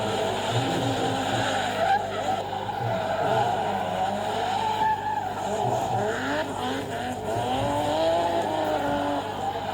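Racing-game drift car sounds: engine notes rising and falling as the cars rev, with tires squealing through the drifts.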